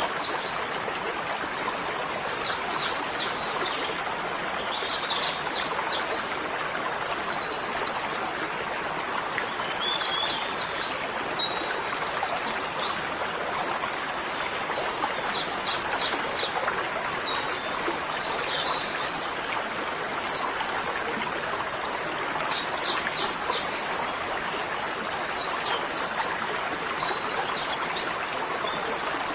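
Small birds chirping in short, rapid trills that repeat every couple of seconds, over a steady rushing sound like running water.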